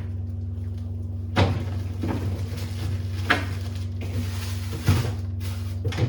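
Knocks and clunks of produce and containers being handled and set down in a refrigerator, three sharp knocks about two seconds apart, over a steady low hum.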